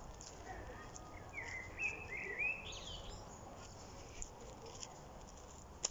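Quiet garden ambience. A bird chirps a short run of rising and falling notes between about one and a half and three seconds in.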